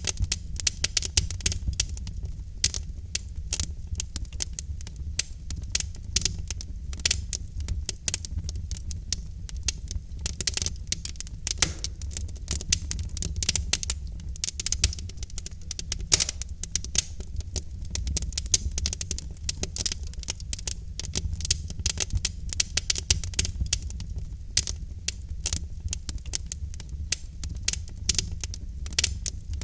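Wood fire crackling: logs burning in a fireplace, with rapid irregular pops and snaps over a low steady rumble of the flames.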